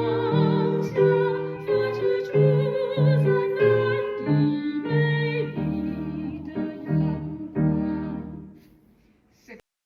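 Soprano voice singing with piano accompaniment, the first-soprano part of a choral arrangement; the music dies away about eight to nine seconds in, followed by a small click.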